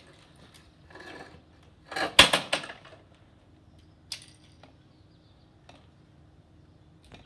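A quick cluster of metallic clicks and clatter about two seconds in, with a softer rustle just before it and a few lone clicks later.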